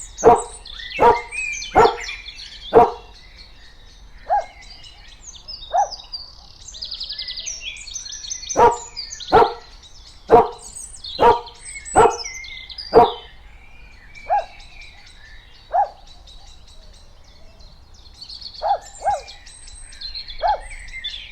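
A dog barking in single barks about a second apart: a loud bout at the start, another loud bout from about nine to thirteen seconds in, and fainter barks between and near the end. Birds chirp throughout, with a short fast trill about seven seconds in.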